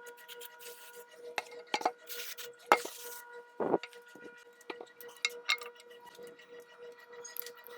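Small metal clicks and knocks of sewing-machine parts and tools being handled, with a couple of short hissing bursts and a faint steady hum underneath.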